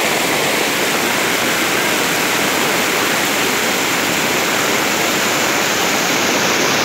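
Heavy rain pouring down and floodwater rushing through a street, making a loud, steady roar of water.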